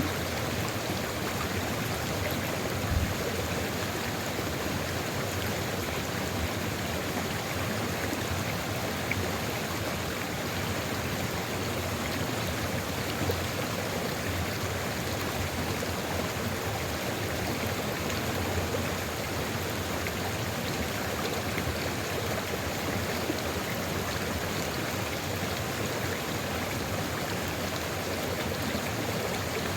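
Sulfur river water flowing steadily: an even, continuous rushing with a few brief slightly louder splashes.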